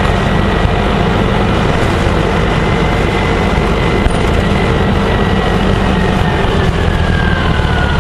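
Gillig Phantom transit bus's diesel engine running under way, a steady loud drone. A faint high whine rides over it, holding steady and then slowly falling in pitch over the last few seconds.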